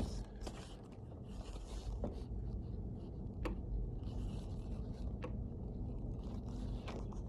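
Wind rumbling on the microphone, with intermittent scraping and a few sharp clicks.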